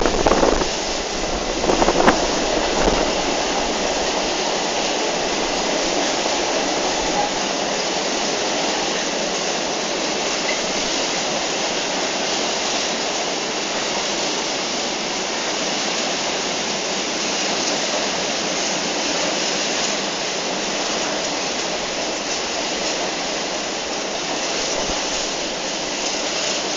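A freight train's empty flat wagons rolling past on the rails, a steady rumbling rush of wheels on track, with a couple of louder knocks in the first two seconds.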